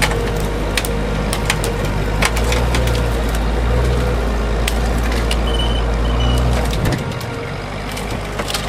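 A 4x4's engine running in deep snow, with many irregular sharp snaps and cracks of wood, as of branches breaking against the vehicle while it squeezes under a fallen tree. The engine's low drone drops away about seven seconds in.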